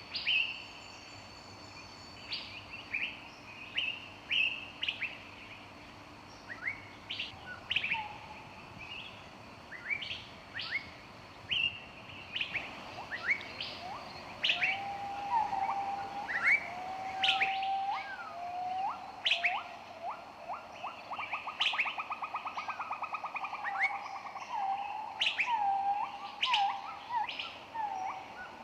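Several songbirds chirping and singing in a forest chorus: many short, sharp high chirps throughout, joined about halfway by lower whistled phrases and a quick trill.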